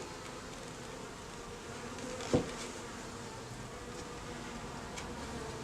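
Buckfast honeybee colony humming steadily from the open hive box, with a single short knock about two and a half seconds in.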